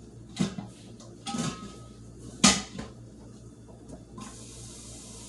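Kitchen clatter: containers and dishes set down on a counter with three short knocks, the third the loudest. A steady faint hiss starts near the end.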